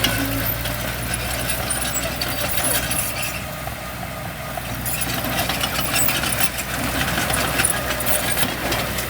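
Heavy diesel machinery engine running steadily, with a rattling clatter over it.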